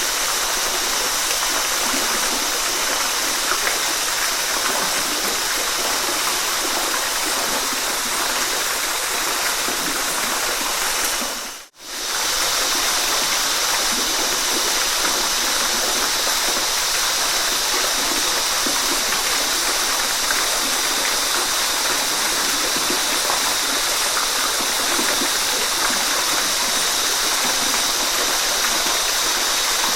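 Waterfall: a steady rush of falling water that cuts out for a split second about twelve seconds in, then resumes unchanged.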